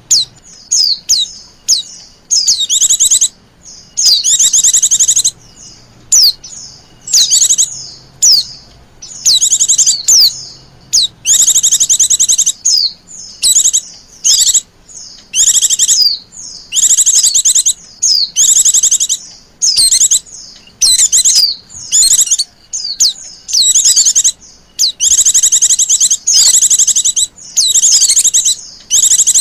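White-eye (pleci) lure call in the excited 'ribut' style, used to draw in wild white-eyes: loud, high, fast chattering trills in bursts of varying length that follow one another with only short gaps.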